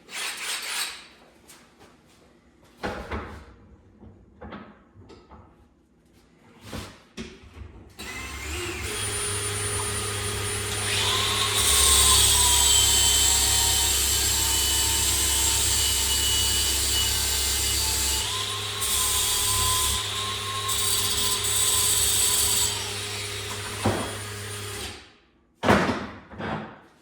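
Handheld power tool motor running for about seventeen seconds with a high whine, getting louder a few seconds after it starts, then cutting off, while steel damper parts are worked to fit. Short metal knocks and handling clicks come before it and just after it stops.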